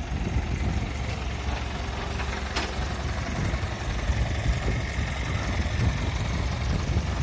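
Truck engine idling with a steady low rumble, and a single short click about two and a half seconds in.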